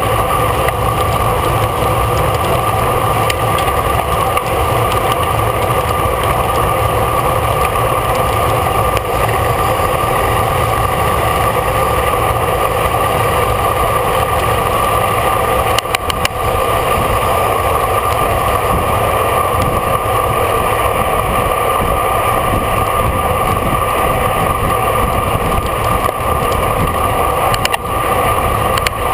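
Steady rush of wind and road noise on a camera riding on a racing bicycle at speed, with a couple of brief knocks about halfway through and near the end.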